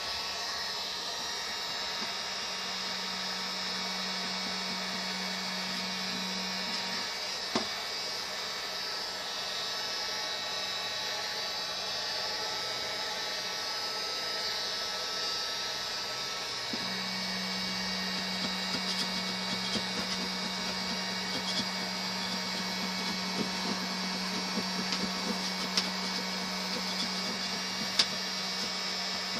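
A small electric motor or blower running steadily. A low hum comes in about two seconds in, drops out near the middle and returns, with scattered light ticks in the second half.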